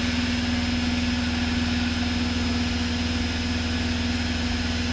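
Cessna 172's piston engine and propeller droning steadily in cruise flight, a constant even cabin drone with no change in pitch.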